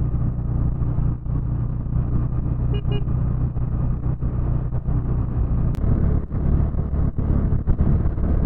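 Motorcycle engine running steadily on the move, with two short beeps about three seconds in. A sharp click comes near six seconds, after which the engine note changes.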